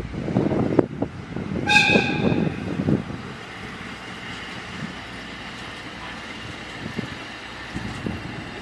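Train passing close by: the wheels clatter and knock for about three seconds, with a short horn toot about two seconds in, then the sound drops to a steady, lower rumble as the train moves off.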